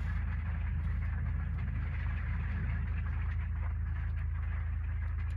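Storm wind and rain on a travel trailer: a steady low rumble with a hiss of rain over it and a few faint ticks.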